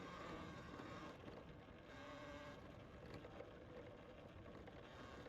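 Faint riding noise of a bike climbing a wet dirt trail: a low even rolling hiss with a faint steady hum.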